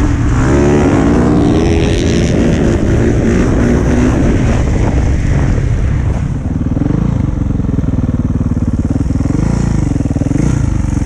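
Dirt bike engine under throttle, its pitch rising and falling as it revs and accelerates, then settling into a lower, steadier run with slow swells of throttle from about six seconds in.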